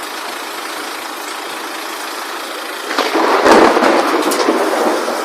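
Hail and rain pelting down steadily, with sharp clicks of hailstones striking. About three seconds in, a louder surge with a low rumble swells for a second or two, then eases back to the steady pelting.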